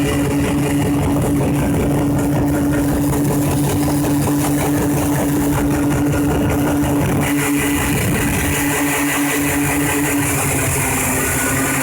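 Yamaha Champ RS 50 cc two-stroke scooter engine, mounted in a racing kart, idling steadily; its pitch settles slightly lower near the end.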